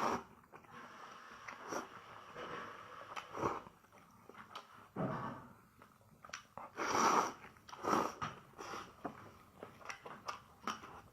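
Close-up eating sounds: a person chewing liangpi cold noodles, with irregular louder mouth noises, the strongest about five, seven and eight seconds in.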